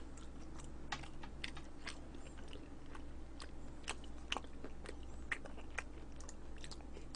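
A person chewing a mouthful of food close to the microphone, with small irregular mouth clicks.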